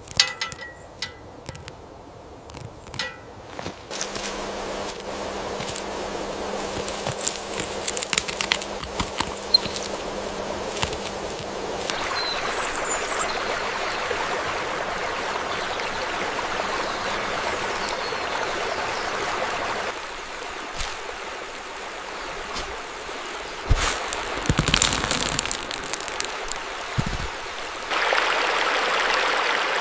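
Running water of a stream, an even rushing that changes in tone and strength several times. Sharp clicks come in the first few seconds, a low steady hum runs through the first third, and a cluster of knocks comes about three quarters of the way in.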